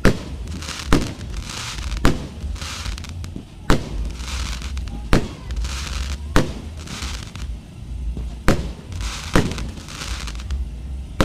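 Fireworks display: aerial fireworks going off in a run of about nine sharp bangs, irregularly spaced roughly a second apart. Each bang is followed by a short hissing crackle as the bursts spread.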